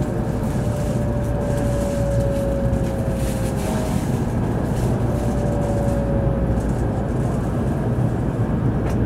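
Cabin running noise of an N700-series Shinkansen slowing into a station: a steady low rumble with a faint whine that slides gradually lower in pitch.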